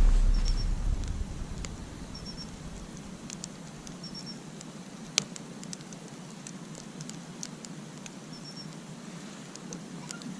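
Campfire burning, with scattered sharp crackles and pops over a steady hiss and one louder pop about five seconds in. A loud low rumble fades out over the first two seconds, and faint groups of short high chirps recur every couple of seconds.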